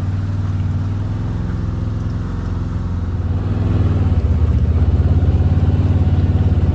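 Can-Am side-by-side's engine running while pulling a trailer, getting louder about four seconds in as more throttle is given.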